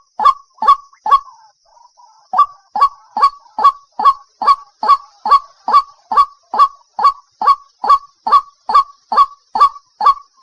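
A waterhen calling with a loud, monotonous string of short, harsh notes, about two and a half a second. The notes break off for about a second soon after the start, then resume at the same steady pace.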